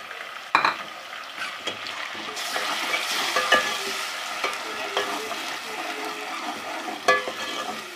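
Onion, ginger-garlic and tomato paste frying in hot ghee, with a steady sizzle that swells a couple of seconds in. A spoon stirs the masala and clicks against the pan now and then.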